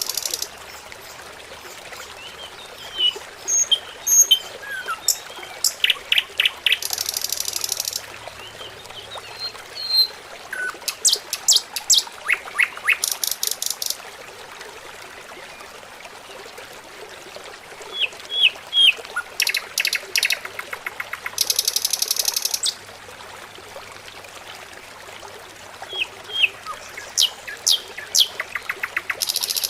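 Small birds chirping, with short quick calls and several rapid high trills scattered throughout, over a faint steady hiss.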